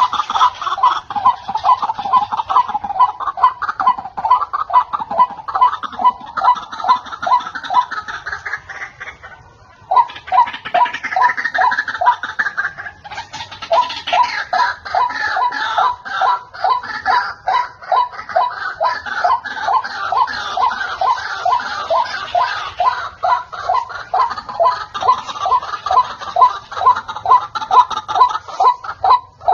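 White-breasted waterhen calling: a fast, unbroken run of harsh repeated notes, about four a second, with a short break about ten seconds in.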